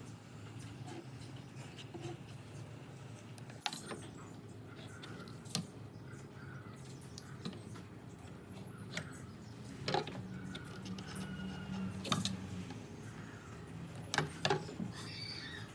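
Scattered light clicks and knocks of hand work in a woodworking shop, about a dozen at irregular intervals, over a low steady hum.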